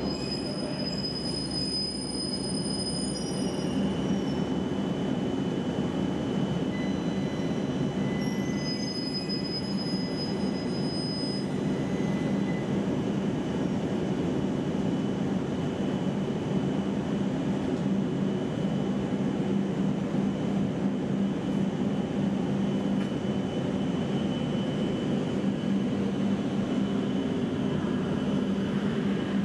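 Steady hum of an E7 series Shinkansen train standing at the platform before departure, with a thin steady high whine over it. Short high tones come and go near the start and again about ten seconds in.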